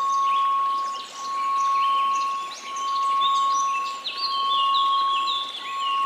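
A steady 1098 Hz pure tone over white noise, the whole swelling and fading about every one and a half seconds, with a flurry of high chirping notes layered on top.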